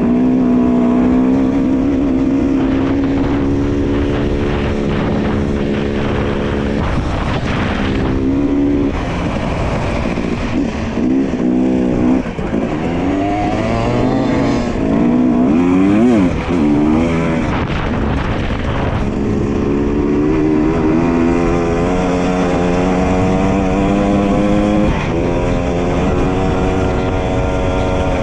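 Dirt bike engine running under way. It holds a steady pitch, then revs up and down several times in the middle, as with throttle changes and gear shifts, before settling back to a steady run.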